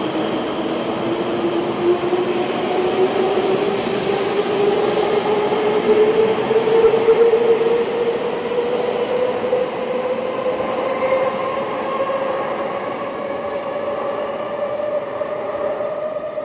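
Taiwan High Speed Rail 700T train pulling out along an underground platform, its motor whine rising steadily in pitch as it gains speed over the rushing noise of wheels on rail.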